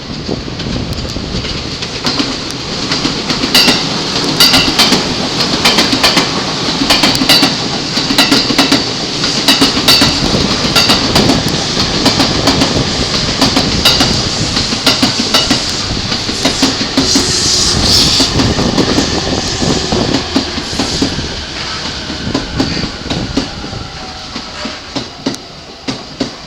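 A long electric commuter train running past the platform, its wheels clacking rapidly over rail joints. The sound builds, holds loud, then fades away near the end, with a brief high squeal about two-thirds of the way through.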